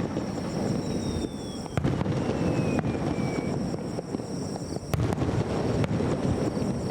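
Aerial fireworks shells bursting, with sharp cracks at the start, just under two seconds in and about five seconds in, over a continuous low rumble. A thin whistle falls in pitch from about one second to three and a half seconds in.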